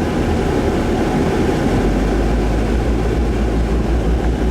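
A car driving, heard from inside the cabin: steady road and engine noise with a low rumble.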